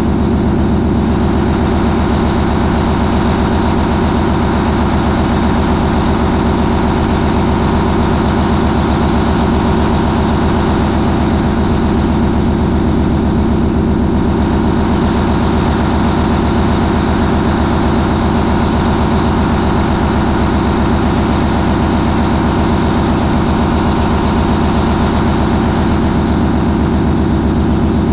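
MAN 20V28/33D STC marine diesel main engine, a sequentially turbocharged twenty-cylinder V, running loud and steady at 940 RPM.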